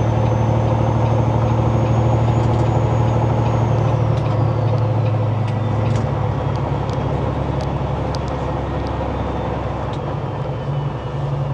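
Semi-truck diesel engine pulling, heard from inside the cab, with a steady low drone whose note changes about four and six seconds in.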